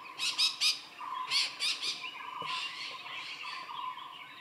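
Wild birds calling in forest: two quick runs of three harsh squawks in the first two seconds, then softer calls, over a steady repeated chirping.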